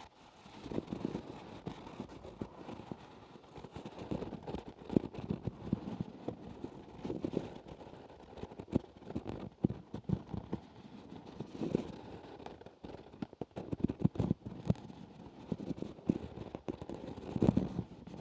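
Close-miked ASMR trigger sounds: irregular soft clicks and crackles, coming in uneven clusters.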